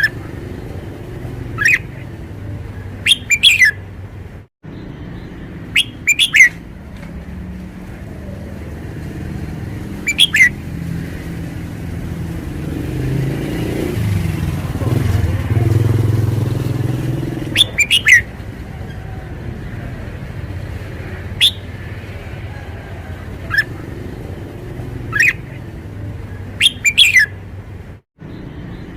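Red-whiskered bulbul singing short, loud whistled phrases every few seconds. A low traffic rumble runs under it and swells in the middle as a vehicle passes.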